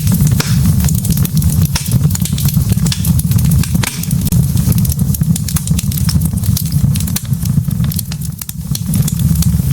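Wood fire of burning logs crackling, with many quick, irregular sharp pops and snaps over a steady low rumble.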